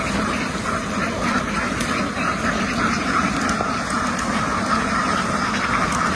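A large flock of domestic ducks quacking together in a dense, continuous chorus.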